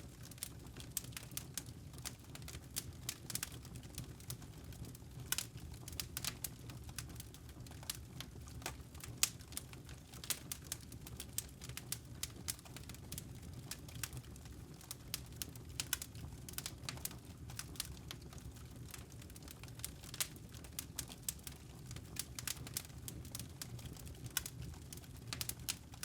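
Wood fire crackling: logs burning with irregular sharp pops and snaps, several a second, over a low steady rumble of the flames.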